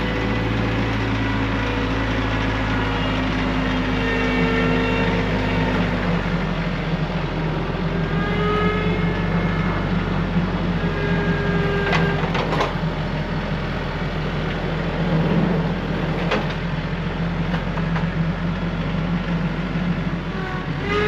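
Tractor engine running steadily under work, its note shifting a little about six seconds in, with sharp clanks about twelve and sixteen seconds in.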